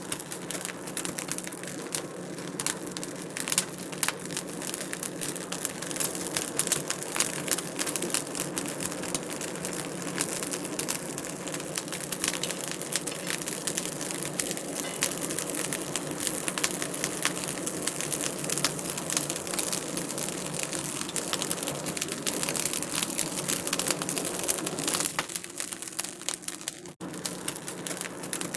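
Wood fire crackling in a fireplace: a steady hiss of many small pops and snaps, with a brief break near the end.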